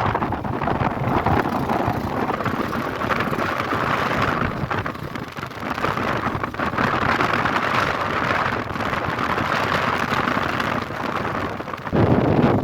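Wind buffeting the microphone: a steady, uneven rushing noise that swells and dips, with a stronger gust setting in near the end.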